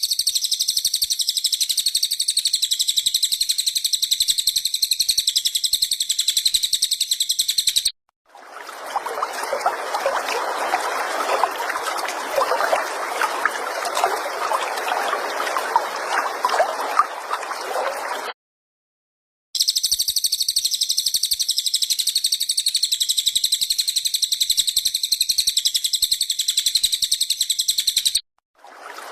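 Looped recording of a small songbird's high, rapid, continuous chirping song. Twice it cuts off abruptly and gives way to about ten seconds of trickling water.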